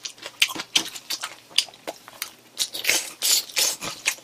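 A person chewing stir-fried spicy pork close to the microphone: irregular wet smacking, with light clicks of chopsticks. The smacking is busiest about three seconds in.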